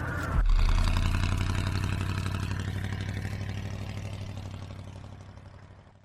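An engine starts with a low, pulsing rumble about half a second in, then runs and fades out gradually to silence.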